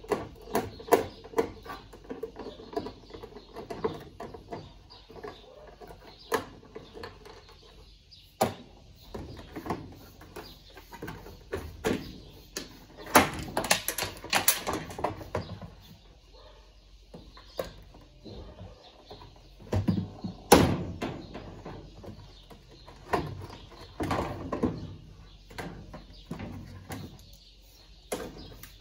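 Irregular clicks, knocks and scrapes of hand tools and parts being handled while a Brastemp top-load washing machine is taken apart, with a louder cluster of knocks in the middle and a sharp knock about two-thirds of the way through.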